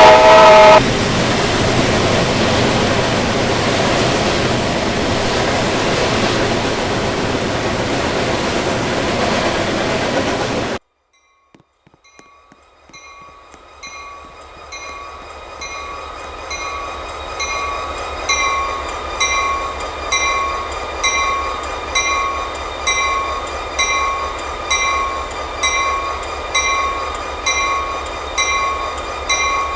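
A train horn sounds and ends within the first second, then a train passes with loud, steady rumbling noise until an abrupt cut about eleven seconds in. After the cut a railroad bell rings steadily, a little over once a second, growing louder over several seconds and then holding.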